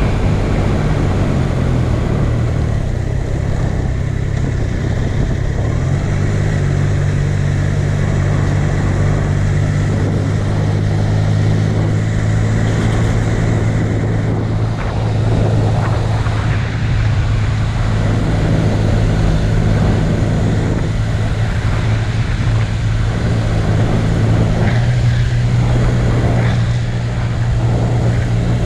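Steady low mechanical hum at a constant pitch, shifting slightly about six seconds in and again near twenty-five seconds.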